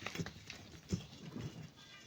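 A few irregular knocks and thuds of digging at a sand-and-rock cliff face, the clearest about a second in.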